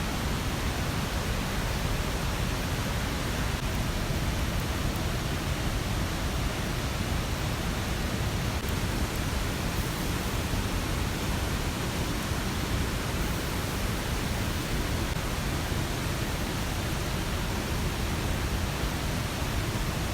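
Steady rush of flowing water, an even hiss and rumble that does not change.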